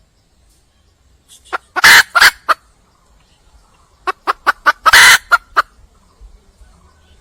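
A red junglefowl hen calling in two bouts of short, sharp calls. There are a few calls about a second in, then a faster run of about eight calls around four to five seconds in. It is a hen's call to a male, seeking a mate.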